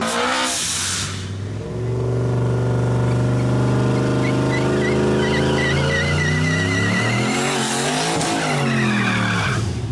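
A drag-racing vehicle's engine held at steady high revs while a tire squeals with a wavering pitch, as in a burnout. About two-thirds through, the engine pitch swings up and down, and the sound cuts off suddenly at the end.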